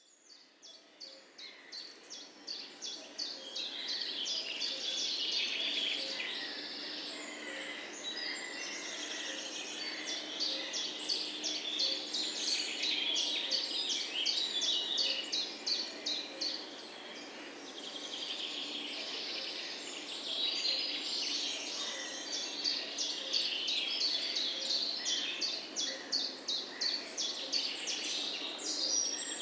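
A chorus of several songbirds chirping and trilling, with fast runs of repeated high notes overlapping one another; it fades in over the first few seconds.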